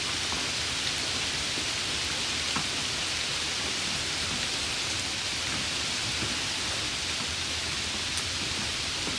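Steady rain falling, an even dense hiss with a few sharper drop ticks.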